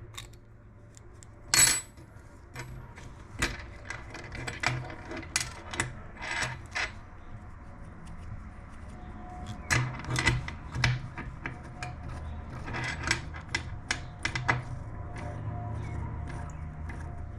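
Small steel parts of a clamp-style knurling tool being handled and repositioned: scattered clicks, clinks and short scrapes of metal on metal, the loudest a sharp clink about a second and a half in.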